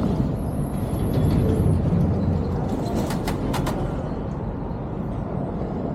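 Steady road and traffic noise with low wind rumble from a moving vehicle, with a few sharp clicks about three seconds in.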